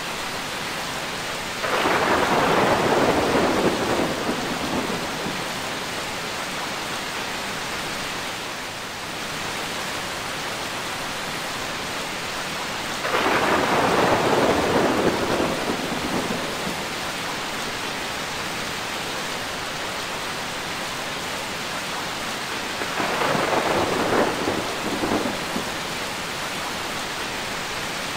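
Steady rain pouring down, with three rolls of thunder swelling up and fading over two to three seconds each: about two seconds in, near the middle, and again towards the end.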